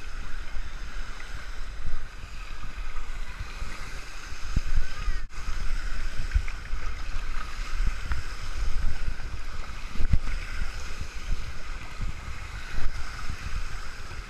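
Steady rushing, splashing water with irregular low rumbling of wind and handling on the microphone.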